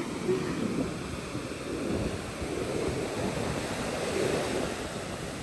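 Ocean surf washing onto the shore: a steady rushing that swells and eases a little.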